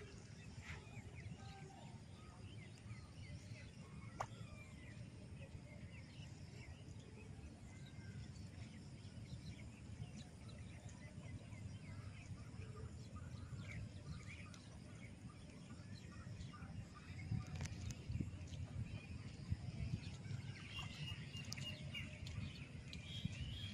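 Faint rural outdoor ambience: scattered short bird chirps over a low steady rumble, with a denser run of chirps near the end.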